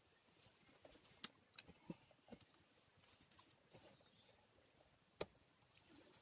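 Near silence, broken by a few faint, scattered clicks and short rustles.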